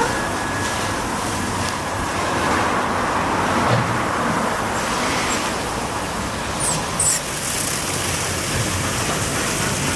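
Automatic soft-cloth car wash running, a steady rushing noise of water spray and machinery, with two short sharp sounds about seven seconds in.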